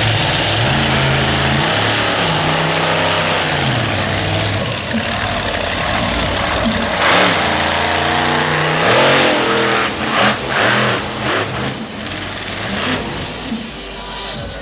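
Jester monster truck's supercharged V8 engine revving up and down again and again, followed near the end by a string of short, sharp throttle blips.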